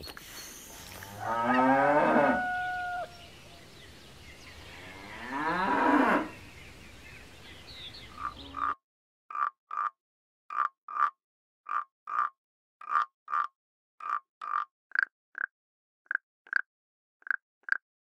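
Two long, low animal calls, each lasting one to two seconds. Then, from about nine seconds in, a frog croaking: a run of short, evenly spaced croaks, two to three a second and often in pairs, with dead silence between them.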